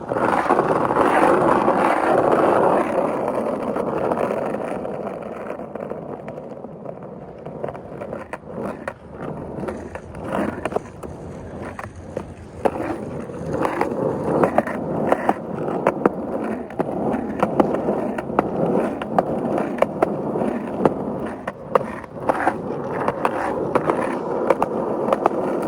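Skateboard wheels rolling over pavement, loud at first and fading as the board moves away, then growing louder again near the end. Frequent sharp clicks as the wheels cross cracks and joints.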